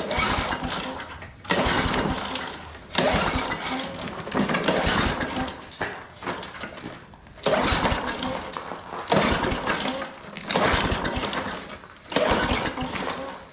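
Craftsman walk-behind lawn mower's small engine being pull-started: about eight tugs on the recoil starter rope, each spinning the engine over in a short rush of sound. It never catches, after five primes on the primer bulb.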